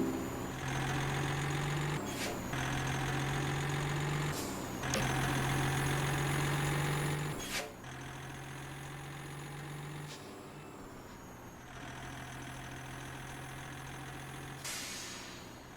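Scania truck's diesel engine running with a steady low drone that breaks off briefly several times, with a few short hisses at the breaks. The drone gets quieter about eight seconds in.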